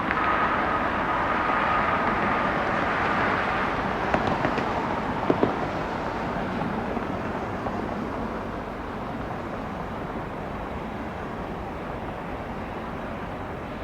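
Jet airliner engines: a steady rushing with a thin whine, loudest at first and fading after about six seconds as the jet moves away. A few clicks and two sharp knocks come about five seconds in.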